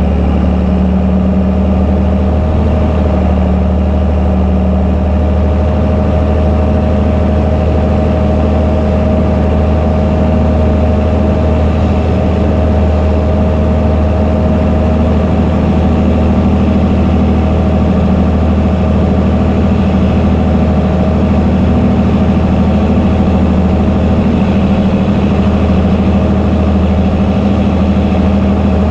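Fendt Favorit 926 Vario tractor's six-cylinder diesel running steadily through an open exhaust pipe. It is a loud, deep drone with a thin steady whine above it.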